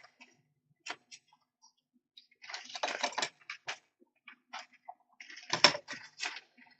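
Scattered clicks and short paper rustles from hands crafting, handling paper pieces and pressing them onto a glued bottle, with two busier bursts of rustling, about three and six seconds in.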